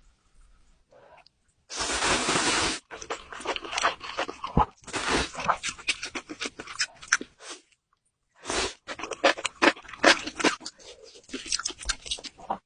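Close-miked eating of spicy noodles with enoki mushrooms and scallops: wet chewing with many sharp mouth clicks. There is a longer noisy burst about two seconds in, a brief pause near eight seconds, and then another burst followed by more chewing.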